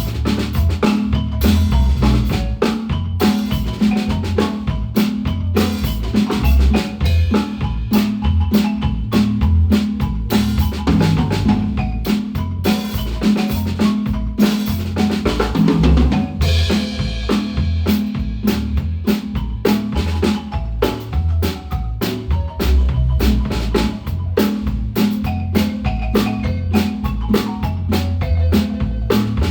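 Guatemalan marimba playing with a drum kit: mallet notes over a steady beat of bass drum and snare.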